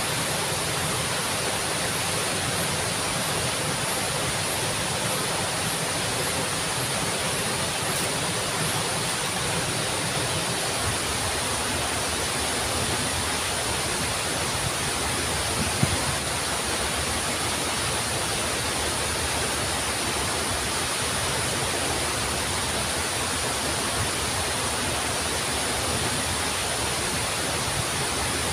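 Waterfall pouring, a steady even rush of water with no break, and one brief knock about halfway through.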